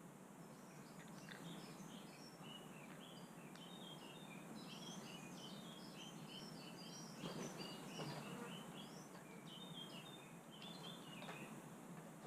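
Faint twittering of small songbirds: many quick, high chirps in a running series, with a few soft knocks about seven and eight seconds in.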